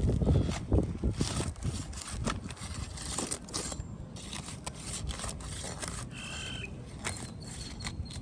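Scraping and clicking of a roofing hand tool worked under 3-tab asphalt shingles to lift the shingle and loosen its nails, with many short scuffs and a brief high squeak about six seconds in.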